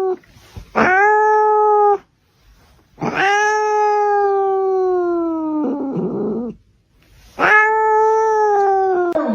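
Cat yowling in three long, drawn-out calls, each sagging slightly in pitch; the second trails off into a rough, raspy sound.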